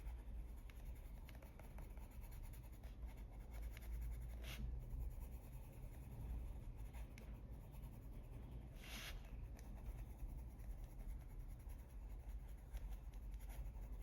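Polychromos colored pencil scratching on paper as it shades in small, light strokes. Two brief, louder scuffs come about four and nine seconds in.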